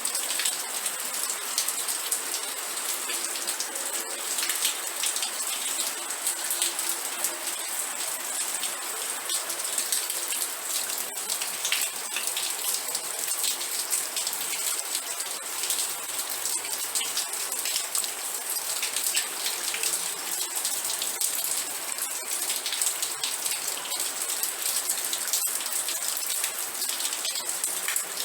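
Steady rain, a dense patter of individual drops over a continuous hiss.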